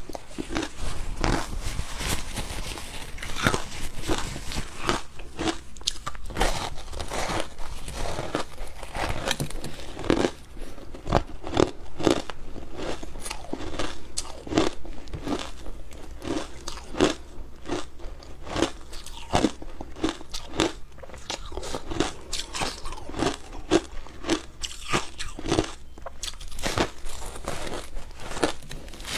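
A person biting and chewing ice coated in matcha powder: a dense, irregular run of crunches, several a second, without a pause.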